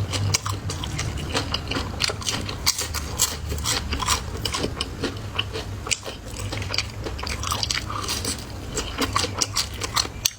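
Close-up crunching and chewing of crispy deep-fried small yellow croaker, an irregular run of crisp crackles and bites.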